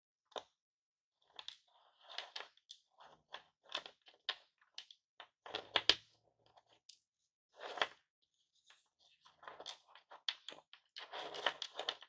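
Smashed lollipops in cellophane wrappers being handled close to the microphone: irregular crinkling of the plastic and crunching of the broken hard-candy pieces, in short sharp bursts that grow denser near the end.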